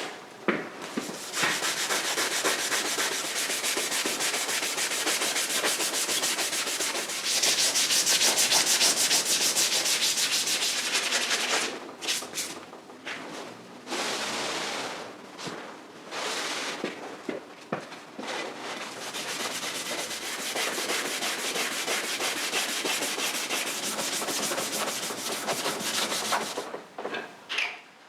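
600-grit abrasive paper scuffing motorcycle engine casings by hand to key the surface for primer: a steady rasping rub, louder for a stretch about a third of the way in, with a few short breaks in the middle.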